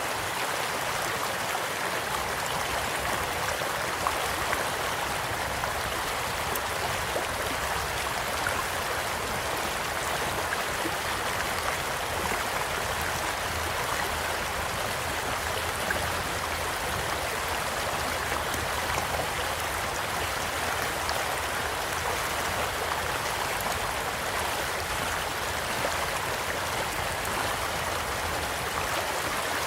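Steady rush of a gently flowing stream, with a few sharp pops of a crackling campfire scattered through it.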